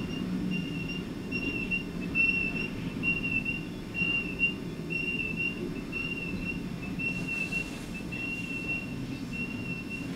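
Freight train cars rolling past with a steady low rumble and a few louder knocks. A thin, high-pitched whine runs on through it with brief breaks.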